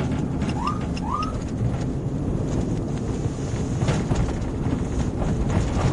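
Police patrol car driving, with steady road and engine noise in the cabin, and two short rising siren chirps about half a second and a second in, signalling the car ahead to pull over.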